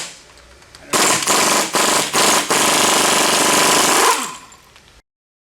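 Impact wrench hammering in several short bursts, then a longer run of about a second and a half that winds down and stops. It is working fasteners on a truck differential during a ring and pinion swap.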